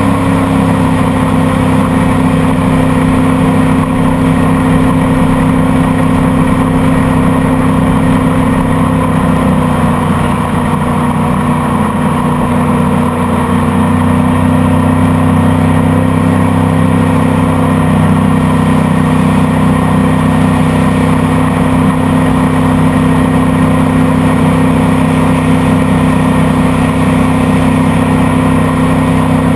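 Motorboat engine running steadily under way, a constant drone that eases slightly for a few seconds around the middle.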